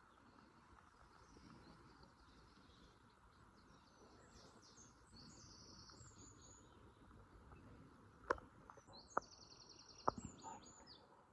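Faint songbird song in open country: two quick, high, trilling phrases, the second near the end. Three sharp clicks or knocks near the end stand out above it.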